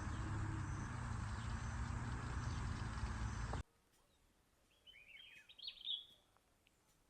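Steady outdoor background noise with a low rumble cuts off abruptly about three and a half seconds in. In the quiet that follows, a bird gives one short, chirping call of several quick notes.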